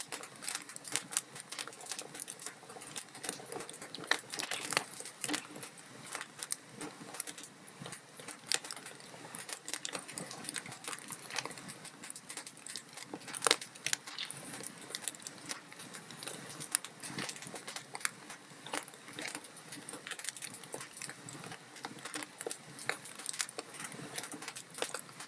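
Log fire burning in a fireplace: a steady, irregular crackle of small snapping pops over a soft hiss, with a few louder pops.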